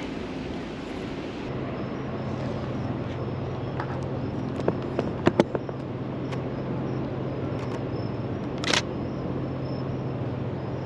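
Camera shutter firing: a few single clicks around the middle, then a short rapid burst near the end, over a steady low hum.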